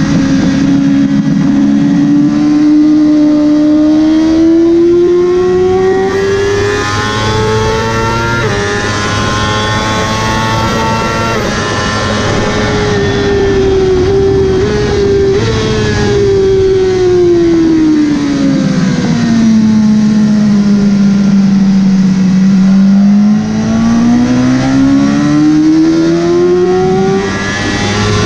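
Motorcycle engine running hard on a race track: its pitch climbs with brief breaks at gear changes, falls away smoothly over several seconds as it slows, then climbs again near the end, over a steady rush of wind noise.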